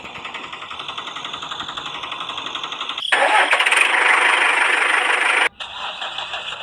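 An engine running with a fast, even pulse. About three seconds in a much louder hissing rush joins it, and it cuts off abruptly about two and a half seconds later.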